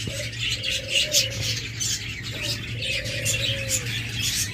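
A dove cooing twice, each coo a short higher note followed by a long, slightly falling tone, over continuous high chirping and chattering of many small cage birds.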